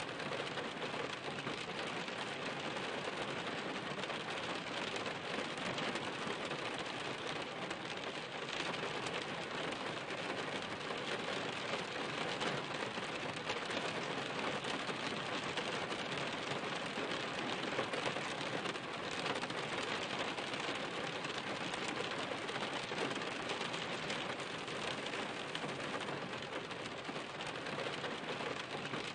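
Steady rain falling without a break, a dense patter of many small drops.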